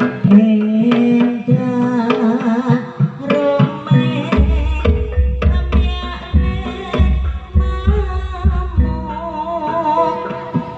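Jaranan music: a Javanese percussion ensemble with busy hand-drum (kendang) strokes under a wavering melody line. About four seconds in, a deep bass drum joins in and keeps beating.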